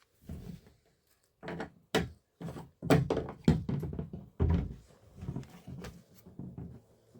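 A run of irregular knocks and thuds, about a dozen over six seconds, loudest in the middle.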